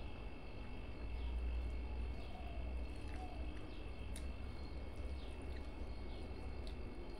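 Faint, short chirps of small birds repeating every second or so over a steady high whine and a constant low rumble, with one sharp click partway through.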